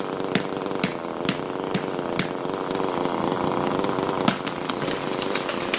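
A small engine-driven machine running steadily, with sharp ticks about twice a second through the first couple of seconds and one more tick later.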